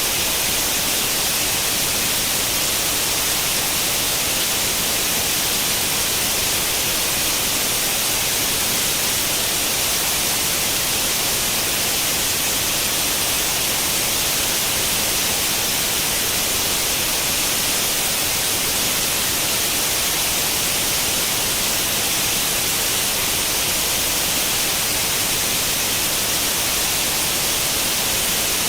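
Steady white-noise static of the kind an old CRT television gives when tuned to no channel: an even hiss, brightest in the high end, that does not change.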